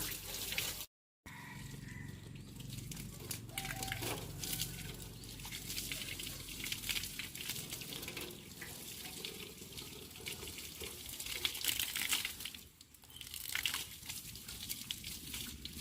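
Water running and splashing steadily, broken by a brief cut about a second in.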